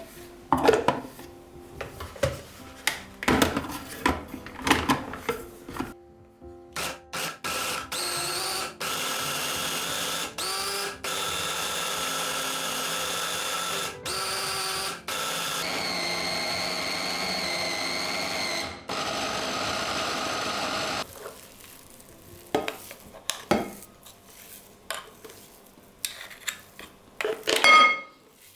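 Small electric kitchen appliance motor, blender-like, whirring with a steady whine. It runs for about fourteen seconds in a string of pulses and short stops, set between knocks and clatter of utensils and dishes, with one loud ringing clink near the end.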